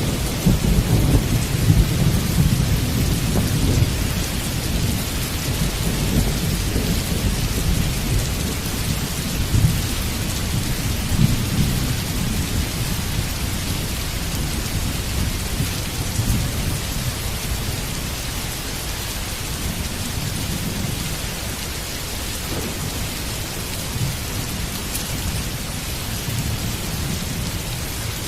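Steady heavy rain with thunder rumbling low underneath; the rumble is strongest in the first few seconds, swells again briefly, then eases off while the rain hiss goes on.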